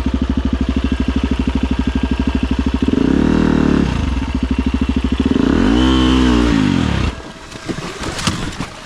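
Husqvarna FE250 enduro motorcycle's single-cylinder four-stroke engine running at low revs with an even firing beat, then revved up and back down twice. About seven seconds in the engine sound drops away, leaving some light clattering.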